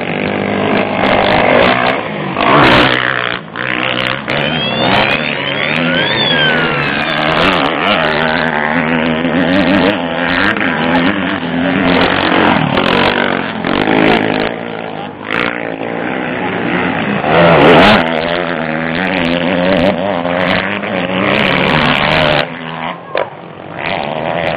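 Motocross bikes racing, their engines revving up and down through the gears as they pass. The loudest passes come about three seconds in and about two-thirds of the way through.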